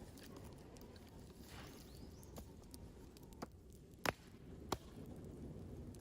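Two sharp knocks a little over half a second apart, over a low steady rumble and scattered faint clicks.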